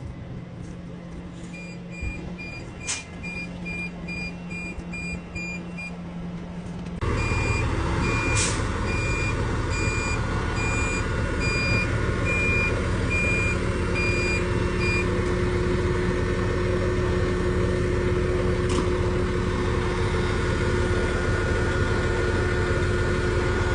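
A crane's reversing alarm beeping about twice a second over its running engine while it backs into position. The engine noise jumps abruptly louder about a third of the way in, and the beeping stops a little past halfway while the engine keeps running.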